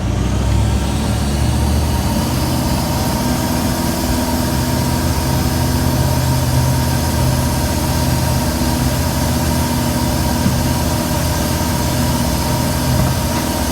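Boat engine running steadily at a constant, low speed, with a continuous hum.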